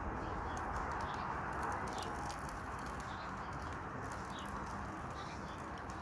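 Wood campfire burning with a steady hiss and scattered small crackles, with short bird chirps a few times.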